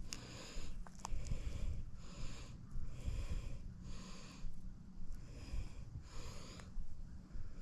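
A person breathing audibly close to the microphone, short hissy breaths about once a second, over a low rumble.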